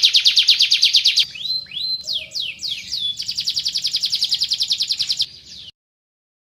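Domestic canary singing: a fast, high trill, then a few separate downward-sliding whistles, then another fast trill that stops abruptly.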